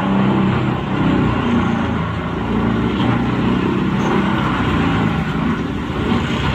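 The engine of a large wood chipper running steadily under load, its note wavering slightly, over a continuous rush of chipping and grinding noise.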